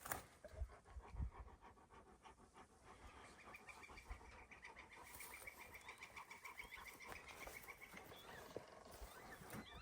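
Near silence, with faint panting and a faint high pulsing tone in the middle.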